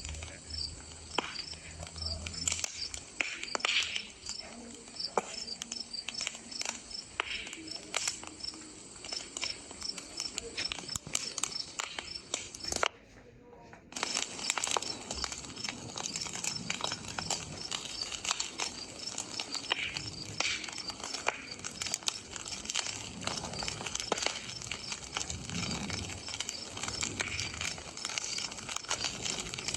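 Campfire crackling, with frequent sharp pops and snaps, over crickets chirping in a steady, even rhythm. The sound cuts out briefly about halfway through.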